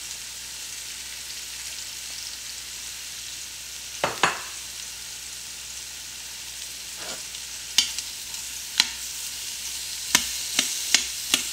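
Sliced onions and mushrooms sizzling in hot oil in an Instant Pot's stainless-steel inner pot on the sauté setting. Sharp clicks of metal tongs striking the pot as the vegetables are stirred: two about four seconds in, then a few more, coming quickly near the end.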